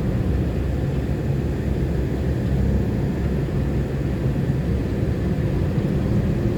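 Steady low rumble of a vehicle in motion, with no distinct knocks or changes in pitch.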